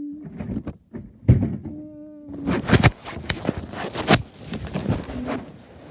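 Clattering and sharp clicks and knocks of objects being handled, loudest in a cluster around the middle, with a few short steady hums at the start, about two seconds in and near the end.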